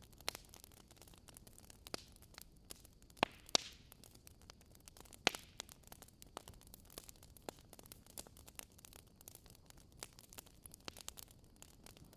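Wood fire crackling in a fireplace: irregular sharp pops and snaps over a faint steady hiss, with a few louder pops in the first half.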